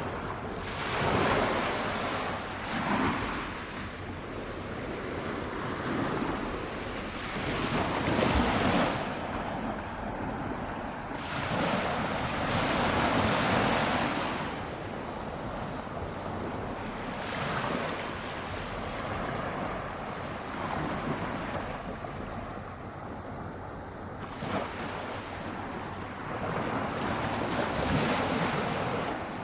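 Small waves from a calm ocean breaking gently on the shore, the wash swelling and fading every few seconds.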